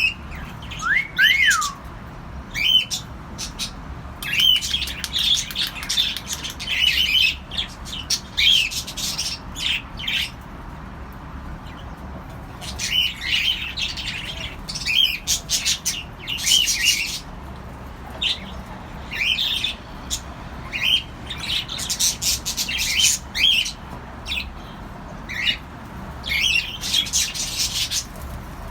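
Cockatiels calling: a steady run of short chirps and harsh squawks with brief pauses between them, and a couple of falling whistles about a second in.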